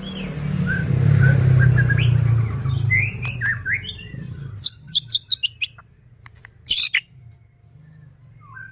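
White-rumped shama (murai batu) singing: short gliding whistles, then a quick run of sharp, clicking rattle notes mixed with high whistles in the second half. A low rumble runs under the first three seconds.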